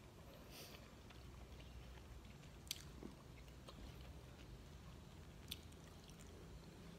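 Faint chewing of the last spoonful of fried rice with the mouth closed, over a low room hum, with two small clicks, one near the middle and one near the end.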